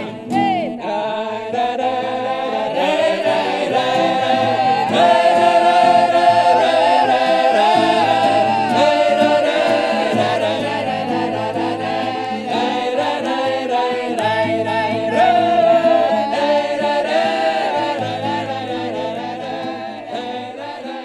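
Vocal ensemble singing a Russian romance in several-part harmony, fading out near the end.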